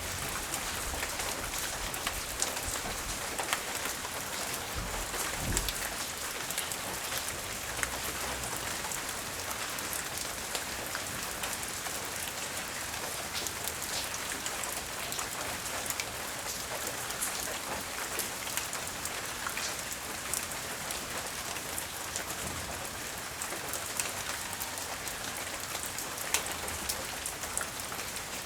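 Steady light rain falling, with many small drops ticking on surfaces, and a brief low rumble about five seconds in.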